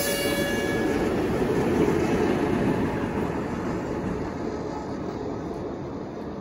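A steady, broad rumbling noise that slowly fades away, with a held chord of several steady tones dying out about a second in.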